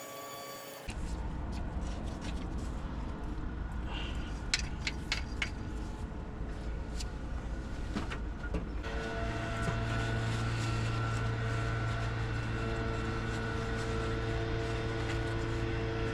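Low rumble with scattered metallic clicks and taps, typical of hand tools working fuel-line fittings, then from about nine seconds in a steady mechanical hum.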